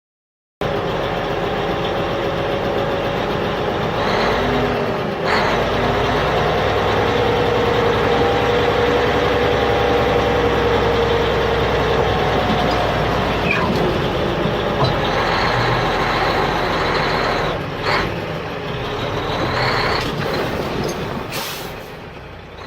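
A vehicle engine running steadily, with a drone and a low hum. It starts abruptly and fades out near the end.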